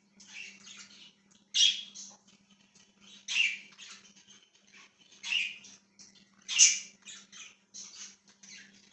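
Pet budgies chirping and chattering in quick, irregular bursts, with four louder chirps spread through the stretch, over a faint steady low hum.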